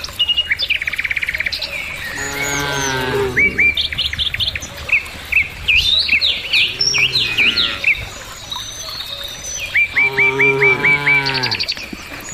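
Cattle mooing: two long moos, about two seconds in and again near the end, with a fainter one in between, over birds chirping busily.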